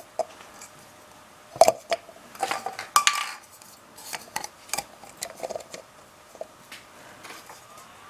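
Hard objects clinking, knocking and scraping during masonry work: a series of sharp knocks with a short ring, busiest from about two and a half to three and a half seconds in.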